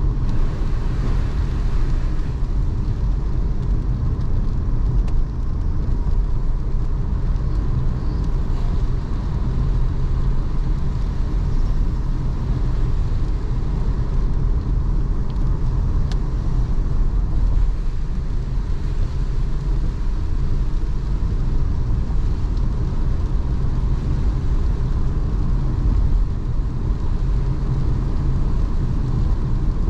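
A car driving, heard from inside the cabin: a steady low rumble of engine and tyre noise, with a faint steady hum above it.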